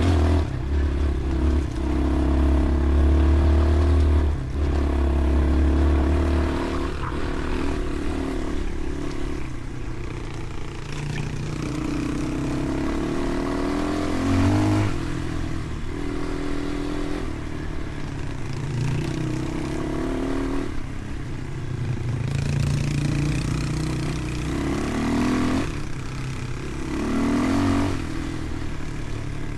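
Vehicle engine running under load, its pitch repeatedly rising and dropping as it revs up and eases off, with rattling from the ride.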